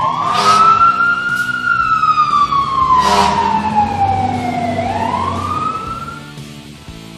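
A siren-like cartoon sound effect: one wailing tone rises, slides slowly down for about four seconds, then rises again before fading. Two short whooshes come near the start and about three seconds in.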